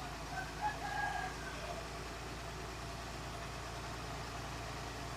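Heavy earth-moving machine's diesel engine running steadily at idle, and a rooster crows once about half a second in.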